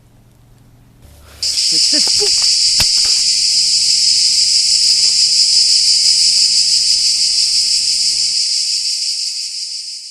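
Loud cicada buzz that starts abruptly about a second and a half in and then holds steady, fading slightly at the very end. A few short low sounds and a single sharp click come just after it starts.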